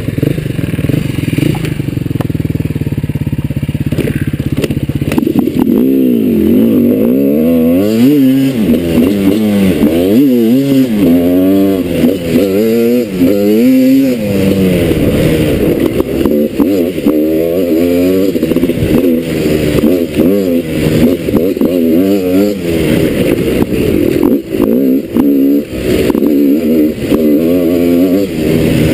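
Off-road motorcycle engine running steadily, then from about five seconds in revving up and down again and again as the throttle is opened and closed while riding.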